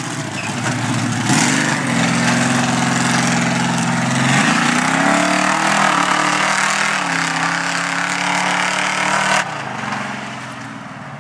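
Off-road 4x4 truck engine revving hard, its pitch rising and falling, with a loud rushing noise over it from about a second in that stops abruptly near the end, after which the engine fades away.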